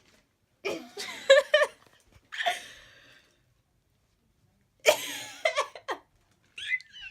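A person laughing in several short bursts with breaths between.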